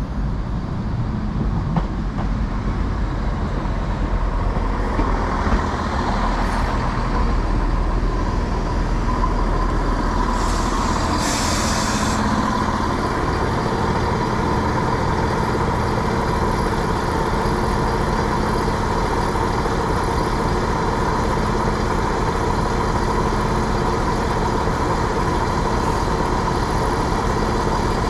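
Two-car diesel multiple unit running at the platform, its engines turning over steadily with a tone held throughout. There is a short burst of air hiss about ten to twelve seconds in.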